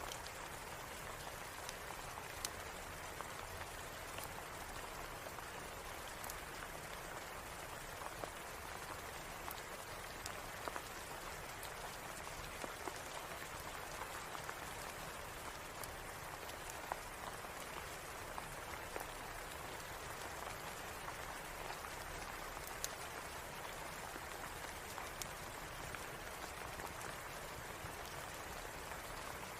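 Steady rain hissing evenly, with a fireplace crackling: sharp, irregular pops scattered over the rain every second or two.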